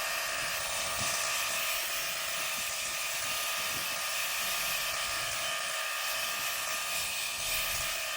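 A small high-speed motor running steadily with a high-pitched whine over a hiss.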